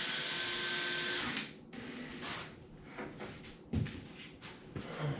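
Power drill driving a drywall screw into foam board, the motor running steadily for about a second and a half and then stopping, followed by scattered knocks and handling sounds.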